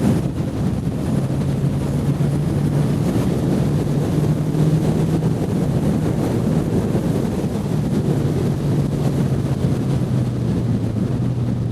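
Motorcycle engine running at a steady cruising speed under wind rush on the helmet microphone, its note dipping slightly near the end.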